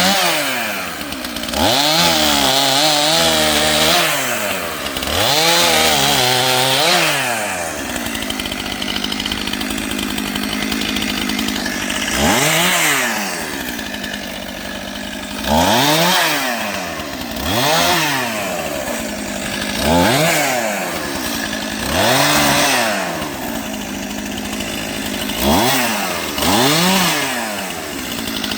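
Two-stroke chainsaw bucking firewood, revving up and dropping back again and again, about every two seconds, with a few seconds of steady running in between.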